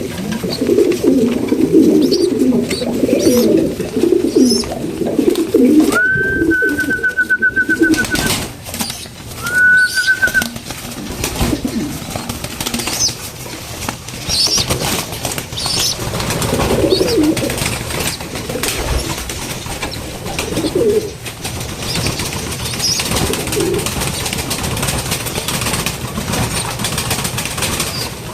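Pigeons cooing, densely for the first few seconds and then in scattered bouts, with soft taps and flutters among them. A steady high whistling tone sounds twice, for about two seconds and then about one second, around six and nine seconds in.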